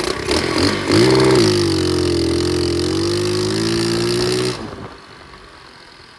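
Flywing pit bike engine revving up sharply about a second in, held at steady throttle for a few seconds, then dropping away suddenly as the throttle closes.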